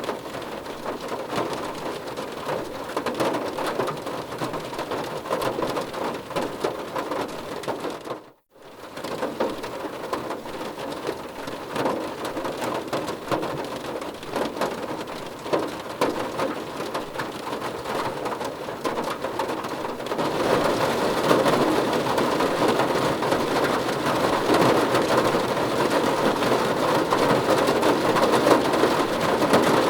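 Rain falling on a car roof: a dense, steady patter of many drops. It cuts out for a moment about eight seconds in, and grows louder and heavier about twenty seconds in.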